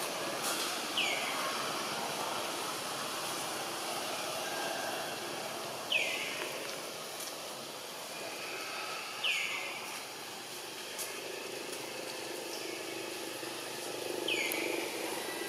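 A bird gives a short call that drops quickly in pitch and then levels off, four times a few seconds apart, over a steady outdoor background hum.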